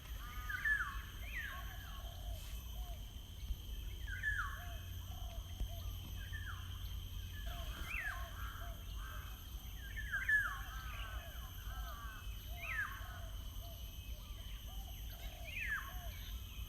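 Several wild birds calling over one another: a run of short low notes repeated throughout, and louder sweeping chirps that rise and fall, over a steady low rumble.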